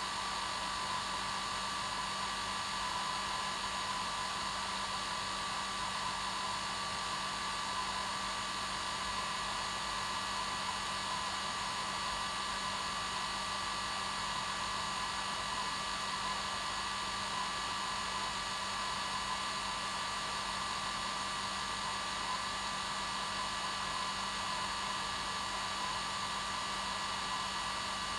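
Hair dryer running steadily: a constant rush of air with a steady motor hum under it, unchanging throughout.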